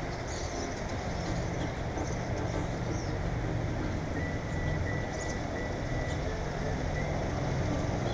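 Steady low rumble of vehicle noise, with brief high bird chirps over it. A thin high note repeats several times about halfway through.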